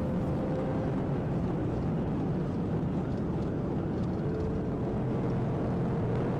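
Steady road and engine noise inside a Dodge Charger police cruiser with a 5.7-litre V8, driving at highway speed in pursuit, heard through its dash-camera audio. A faint steady hum comes in about four seconds in.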